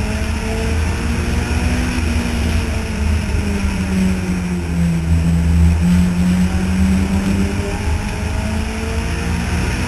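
Several compact race cars' engines running at racing speed on an oval, their overlapping pitches rising and falling as the cars accelerate and lift through the turns.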